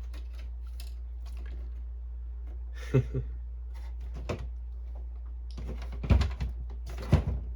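Light clicks and knocks of plastic parts of an opened-up inkjet printer being handled, with a couple of sharper knocks about three seconds in and again near the end, over a steady low hum.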